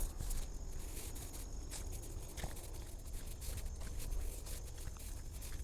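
Faint outdoor rustling and handling noise with a steady low rumble and scattered soft clicks.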